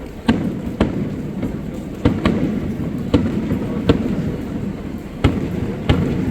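Fireworks show: aerial shells bursting in about eight sharp booms at uneven intervals, over a continuous low rumble of further bursts.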